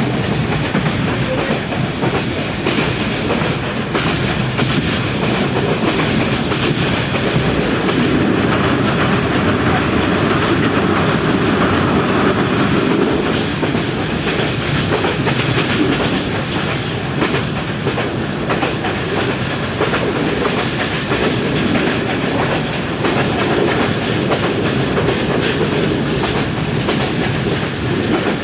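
Passenger train running along the track: steady rail noise of the moving carriages, with occasional clicks of the wheels over the rails.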